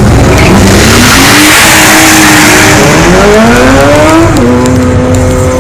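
Car engine revving hard with the throttle held open, its pitch climbing in two sweeps while the tyres spin and squeal, then dropping to a steady lower note about four seconds in.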